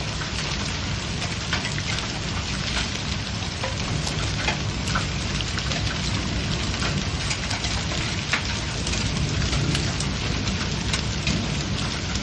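Small hail falling with rain: a steady hiss of precipitation broken by many sharp, scattered ticks of hailstones striking.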